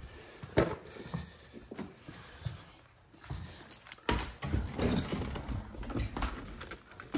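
A series of scattered knocks and clatters with rustling handling noise, quieter for a moment in the middle and busier in the second half.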